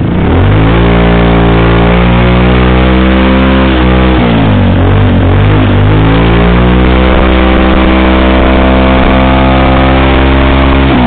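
150cc scooter engine running through an aftermarket chrome racing exhaust, loud. It revs up and holds high, drops back briefly about four seconds in, then revs up again and holds.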